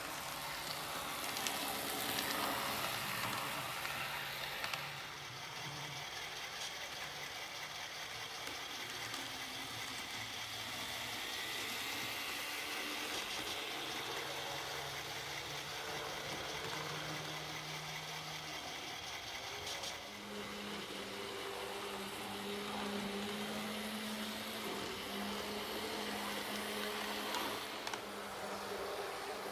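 Model train running on a layout: a steady mechanical hum from the locomotive, its pitch stepping up about two-thirds of the way through, with faint clicks from the wheels on the track.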